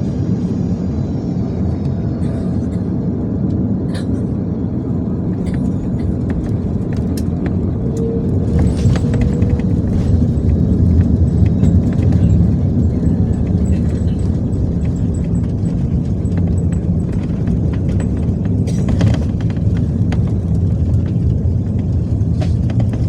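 Airliner cabin noise during landing: a loud, steady low rumble that swells about eight seconds in and then eases, with scattered rattles and clicks from the cabin.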